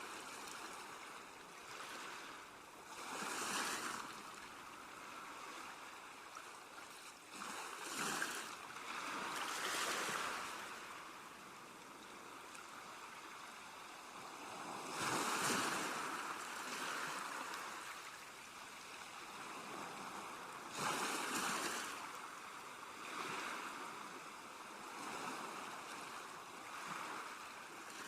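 Sea waves washing onto the shore, the hiss of the surf swelling and falling back every few seconds; the loudest surges come near the middle and about two-thirds of the way through.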